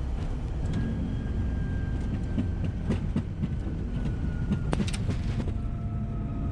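Cockpit noise of a jet on its landing roll: a steady low rumble from the wheels on the runway, with scattered clicks and a faint whine that slowly falls in pitch as the aircraft slows.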